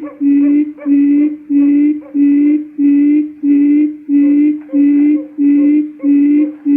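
Quail lure call played from a recording: one low hooting note repeated evenly, about one and a half times a second.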